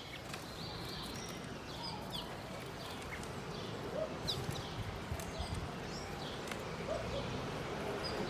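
Small songbirds giving short, high chirps and call notes at irregular intervals, some of them quick pitch slides, over a steady low background noise.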